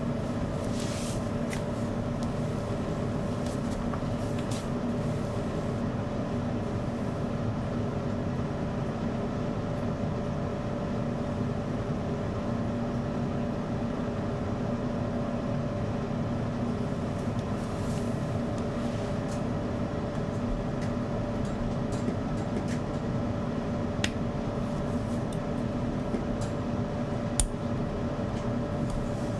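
Hair dryer running steadily, a continuous blowing hum with a few faint clicks in the second half.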